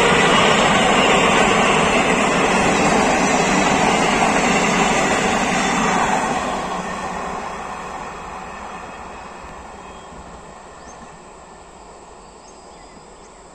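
Passenger express train's coaches running past at speed, a loud steady rush of wheels on the rails. From about six seconds in the sound fades steadily as the train draws away.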